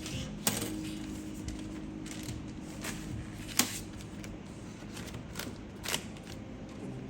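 Hard keyboard parts and packaging being handled and set down: a few sharp clicks and knocks, the loudest about three and a half seconds in.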